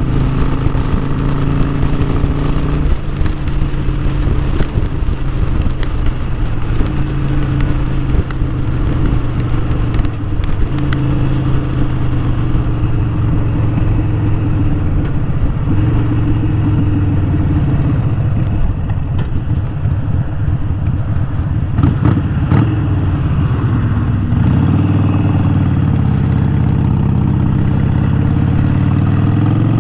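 Harley-Davidson Sportster 1200's air-cooled V-twin engine running while riding, its pitch rising and falling with throttle and gear changes. It settles lower and steadier about three-quarters of the way through, then climbs again near the end.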